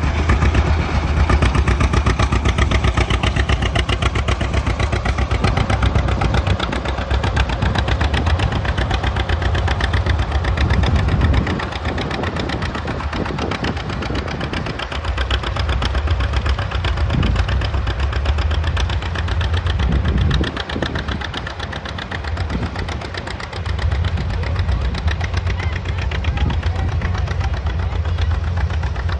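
Antique farm tractor engine running under load while pulling a moldboard plow, with a rapid, even firing beat and a strong low rumble. It eases off somewhat about twelve seconds in and again a little past the middle.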